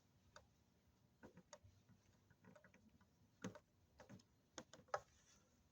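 Faint, irregular clicks and taps, a dozen or so, with the two sharpest about halfway through and near the end.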